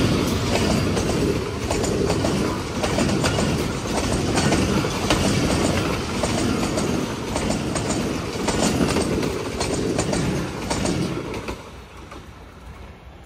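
A train rolling past at speed, its wheels clicking over the rail joints under a steady rumble. The sound drops away about eleven and a half seconds in as the end of the train passes.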